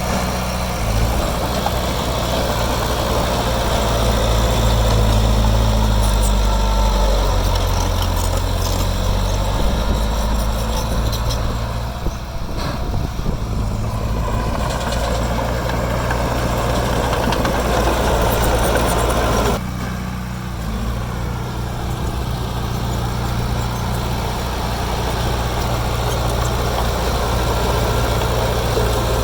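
Heavy diesel engine of earthmoving machinery running steadily, its pitch shifting a few times as the load or throttle changes. The sound drops suddenly about two-thirds of the way through.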